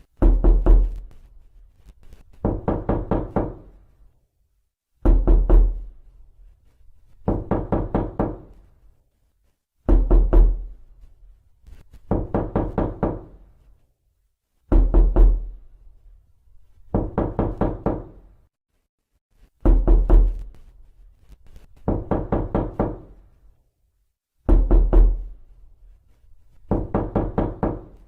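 Knocking on a door in a repeating pattern: a few hard knocks, then about two seconds later a longer run of quicker knocks, the cycle coming round about every five seconds.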